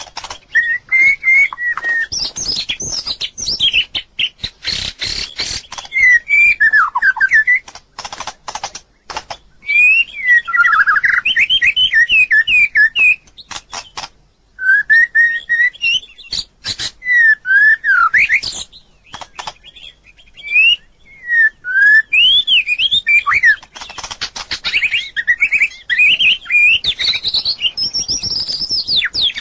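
White-rumped shama singing: phrases of varied whistled notes gliding up and down, separated by short pauses and broken by runs of sharp clicks.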